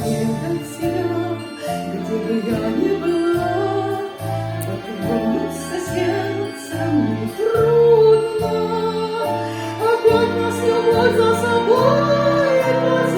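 A song with a singing voice holding long, wavering notes over a bass line that steps steadily between notes.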